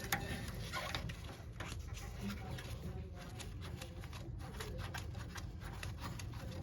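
Irregular light clicks, taps and scrapes of hand tools and small metal parts being handled, with a sharper click just after the start, over a steady low hum.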